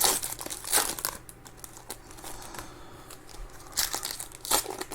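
Foil trading card pack wrappers crinkling and tearing open as cards are handled. The crinkling comes in a few short bursts near the start and again near the end, with a quieter stretch between.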